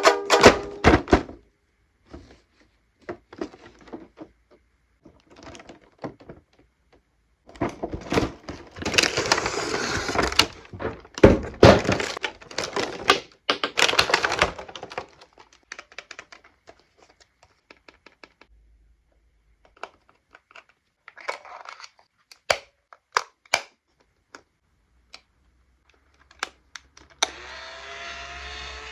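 Anpanman toy guitar being struck and rattled with a power drill: a run of sharp knocks and cracks, with dense rattling noise from about 8 to 15 seconds in. A pitched toy-guitar tone begins near the end.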